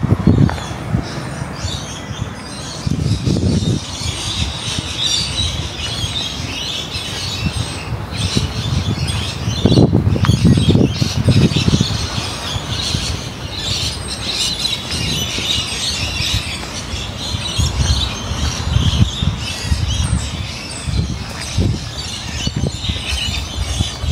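Birds chirping continuously, over irregular low rumbling that swells about ten seconds in.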